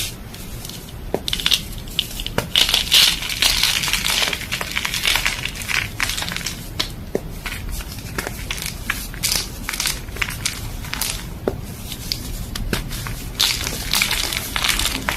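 Blocks of gym chalk being snapped and crushed: continuous crisp crunching and crumbling, broken by many sharp snaps.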